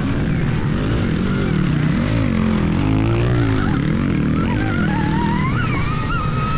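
Stark Varg electric motocross bike riding under throttle: the electric motor's whine glides up and down and climbs in pitch toward the end as the bike accelerates, over a steady rush of wind on the microphone.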